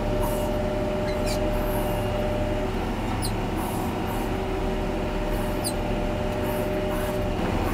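John Deere 670G motor grader's diesel engine running steadily under load while blading, heard as a continuous drone with a thin whine over it and a few brief high squeaks.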